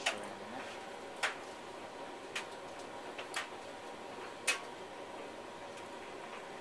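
Creda tumble dryer running a drying cycle on high: a steady motor and drum hum, with five sharp clicks at uneven spacing, about one a second, as the load tumbles in the drum.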